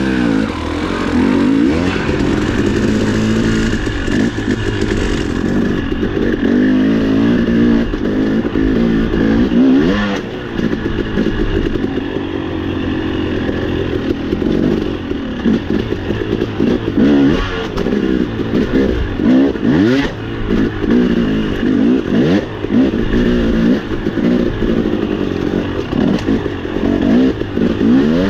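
Dirt bike engine revving up and down over and over as the bike is ridden over rough ground, with scattered clattering knocks.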